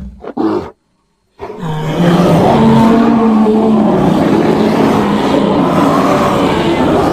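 Bear roar sound effects: one roar cuts off under a second in, and after a short silence a second, long roar of about five seconds begins and fades out near the end.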